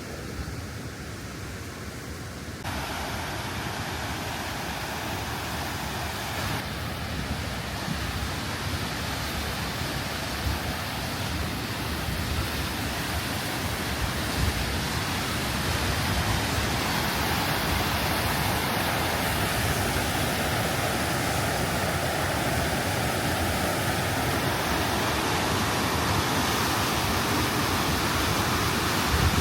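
Stäubifall waterfall, running strong with spring snowmelt, falling water rushing as a steady, even noise that grows louder in steps about 3, 7 and 16 seconds in.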